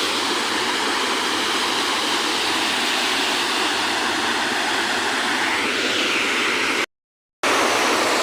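Waterfall's rushing water, a steady even rush, broken by a sudden half-second gap of dead silence about seven seconds in.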